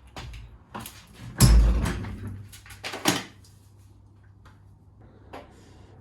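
A door being handled: a series of clicks and knocks, with one heavy thud about a second and a half in and another knock around three seconds in.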